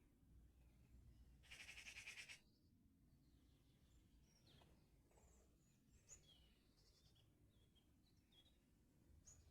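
Small birds singing faintly: a short, buzzy rattling phrase about a second and a half in, then scattered high chirps and short notes.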